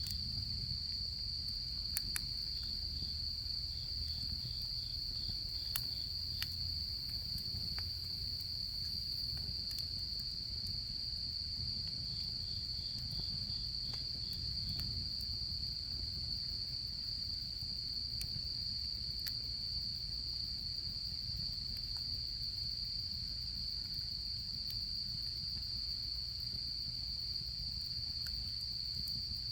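Autumn insects trilling in one unbroken high-pitched drone, with a second insect chirping in short runs of rapid pulses twice. Sharp crackles and pops from a campfire now and then, over a low steady rumble.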